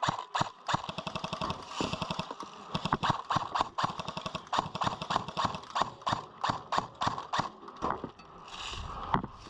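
Airsoft guns firing: sharp cracking shots, with a rapid full-auto burst about a second in and then irregular shots at about three or four a second.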